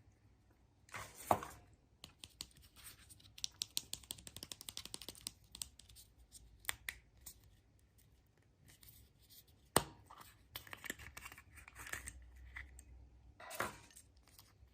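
Wrapping on a surprise egg being torn and crinkled by hand, with bursts of quick rustling clicks and a single sharp snap just before ten seconds in.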